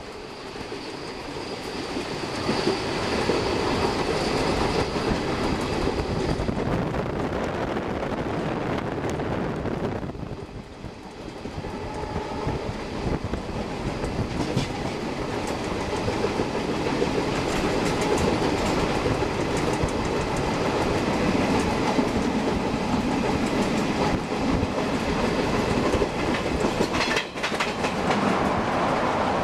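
Passenger train coaches running at speed, their wheels rattling steadily over the rails, heard from an open coach door. The sound briefly drops about ten seconds in.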